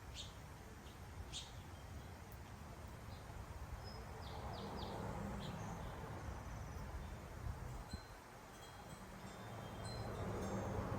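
Wild birds calling at backyard feeders: two sharp high calls in the first second and a half, then a quick run of short chirps a few seconds in and scattered thin high notes later, over a steady low background rumble.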